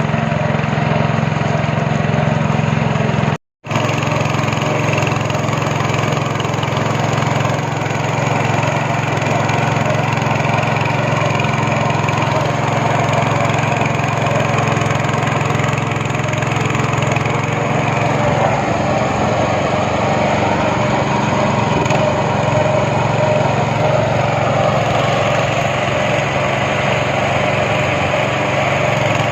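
Speedboat engine running steadily under way, a constant hum with rushing noise over it. The sound drops out completely for an instant about three and a half seconds in.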